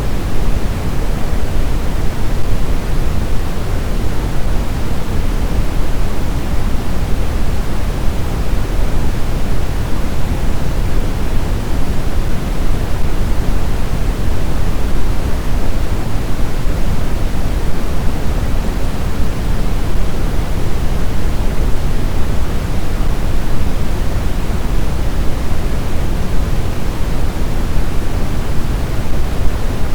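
Steady snowstorm wind noise: a dense, even rushing, heaviest in the low end, with no gusts, breaks or whistling tones.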